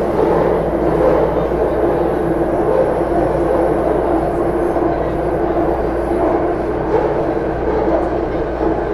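Taipei Metro Series C301 car with Bombardier IGBT-VVVF traction running steadily at speed, heard inside the car: continuous wheel-and-rail running noise with a steady hum.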